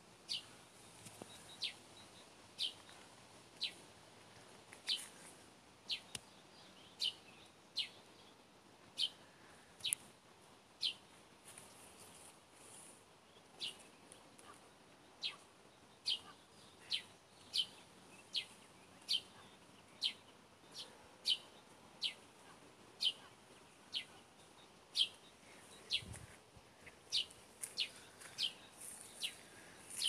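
A small songbird calling: short, sharp, high notes repeated about once a second, now and then in quicker pairs.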